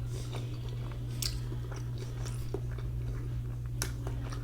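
Close-miked chewing, with scattered short wet mouth clicks and smacks over a steady low hum.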